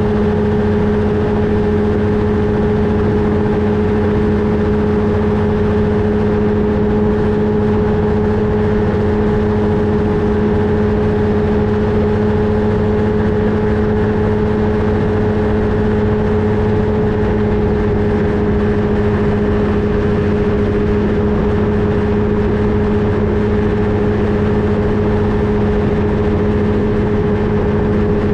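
Flightstar II ultralight's engine and propeller running steadily at a constant power setting, a loud, even drone with a fixed pitch.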